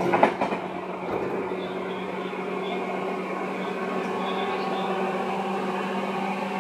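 Seibu 2000-series electric train heard from inside the car: a steady hum with several held tones over a running rumble, with a brief sharp knock or clatter just after the start.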